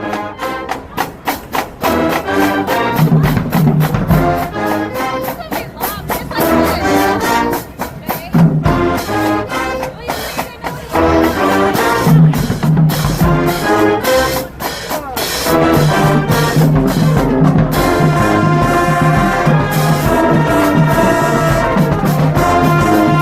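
A high school marching band playing an up-tempo tune: trumpets and trombones over marching drums. The brass plays short, punchy hits at first, then settles into a fuller, steady groove about two-thirds of the way in.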